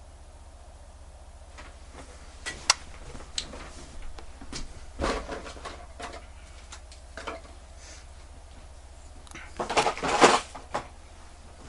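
Small clicks, taps and scraping of tools and watch parts being handled on a work surface, with a busier clatter about ten seconds in. A steady low hum runs underneath.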